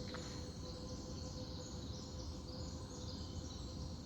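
Steady outdoor chorus of insects and birds chirping, over a low rumble and a faint steady hum.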